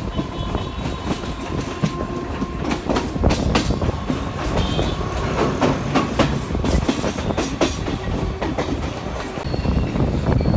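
Electric multiple unit (EMU) suburban train heard from on board, running with a steady rumble while its wheels clatter irregularly over rail joints and the points where the lines divide.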